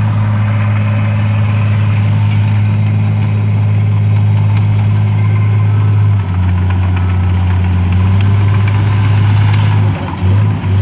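Diesel dump truck engine running steadily at a low, even note; about six seconds in the note drops a little, and the sound briefly dips twice near the end.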